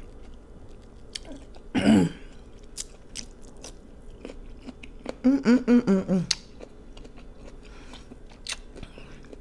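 A person chewing food close to the microphone, with many small wet mouth clicks and crunches. There is a short "mmm" hum of enjoyment about two seconds in and a string of short hums around five to six seconds in.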